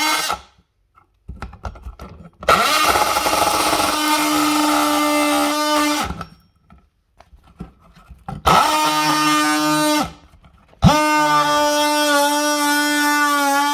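Power cutting tool with a high steady whine, run in short bursts and then three longer runs, spinning up quickly at the start of the later runs, as it cuts to free an old electrical box.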